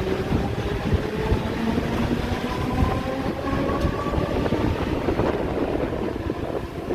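Mumbai suburban electric local train running, the steady rumble of wheels on track with a faint motor whine, heard from inside the coach.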